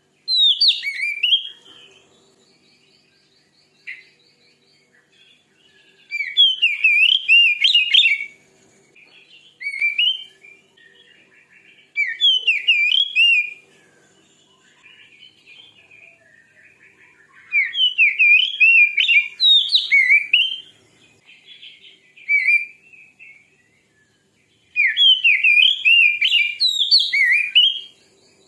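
Oriental magpie-robin (kacer) singing in loud bursts of fast, varied whistled phrases, each a second or a few seconds long, with short pauses between.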